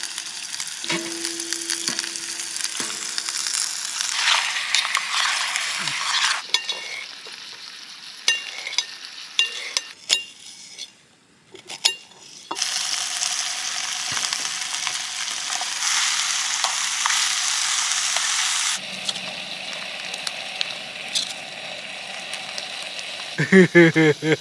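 Raw chicken pieces sizzling and frying in a hot camping-stove pot as they are scraped in, with a few light clicks. The sizzle stops for about two seconds in the middle, then comes back.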